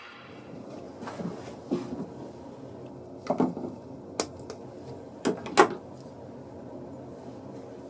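Wooden parts knocking and clunking as they are handled: several separate knocks at uneven intervals, the loudest about five and a half seconds in, over a steady low background noise.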